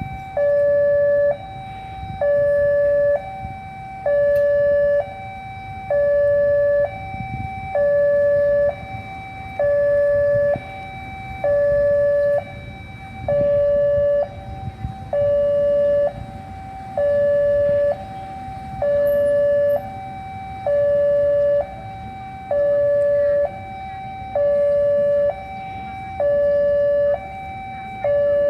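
Railway level-crossing warning alarm sounding a two-tone hi-lo signal, the higher and lower tones alternating about once a second, the sign that a train is approaching and the crossing is closed. A low rumble of traffic or a train runs beneath it.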